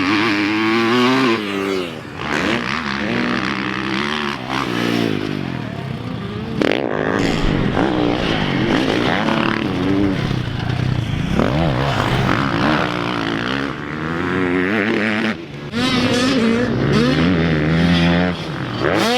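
Motocross dirt bike engines revving hard, their pitch repeatedly rising and falling as they accelerate and shift, with sudden changes a few times.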